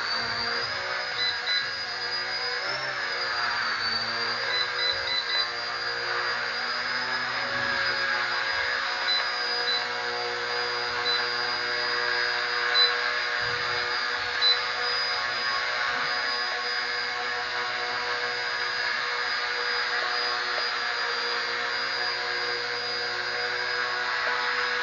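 Small electric RC helicopter (RC ERA C032 Huey) hovering, its motor and rotor blades giving a steady high whine; the pitch wavers in the first few seconds, then holds. Short high beeps come now and then over the first half, trim beeps from the transmitter as the forward drift is trimmed out.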